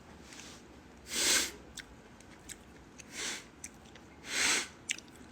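Three short breaths through the nose, about a second apart, with a few faint mouth clicks between them while chewing.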